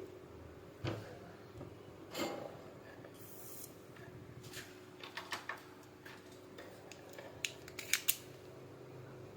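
Small hand tools clicking and tapping on a washing machine's circuit board, with a short scratchy scrape about three seconds in and a quick run of sharp clicks near the end, over a faint steady hum.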